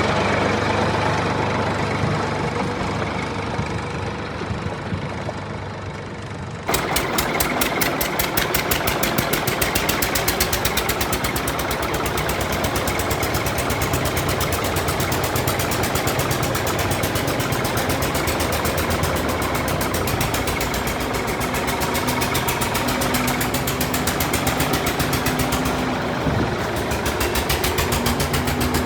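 Tractor engine running. About seven seconds in it switches abruptly from a steady low idle to a fast, even knocking beat, which keeps up to the end.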